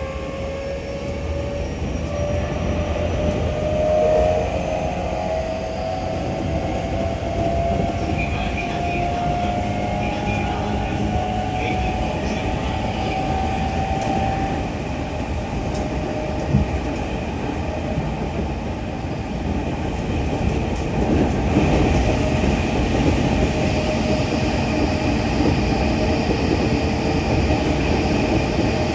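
JR 205 series 5000-subseries electric train running, its VVVF inverter traction motors whining in tones that climb as it accelerates. This gives way to steady running noise of wheels on rail, which grows louder about two-thirds of the way through.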